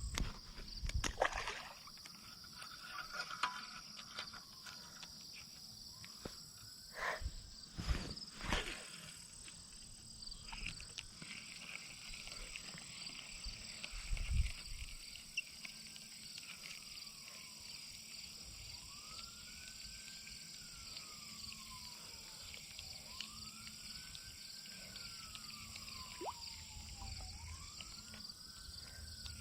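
Distant emergency-vehicle siren wailing, its pitch slowly rising and falling about every three to four seconds. It sounds over a steady high drone of insects, with a few knocks in the first several seconds.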